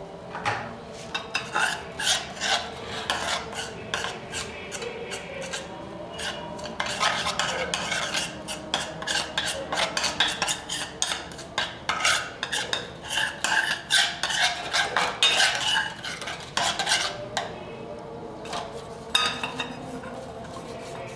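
A utensil stirring and scraping a paste of fine ash, thinner and lacquer paint around a dish, in quick irregular strokes with small clinks against the dish, busiest through the middle.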